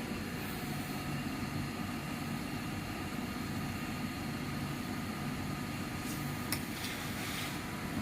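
Steady hum and fan noise of a running microwave oven, with a faint low tone that comes and goes and a light click about six and a half seconds in.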